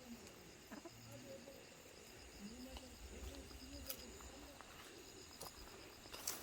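Faint, soft, low clucking of free-range native Korean hens, with insects chirping steadily in a high, even pulse and a few light clicks.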